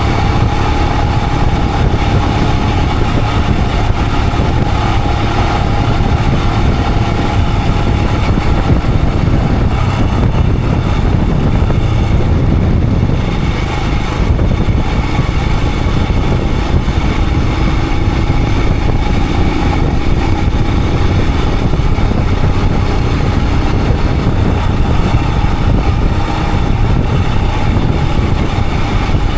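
Royal Enfield Himalayan 411's single-cylinder engine running steadily under way, heard from the rider's position with a dense low rumble.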